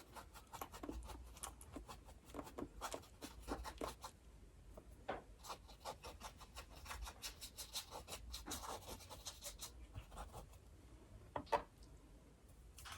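Paintbrush dabbing and scrubbing acrylic paint onto a canvas in quick, irregular, faint scratchy strokes, with one sharper tap near the end.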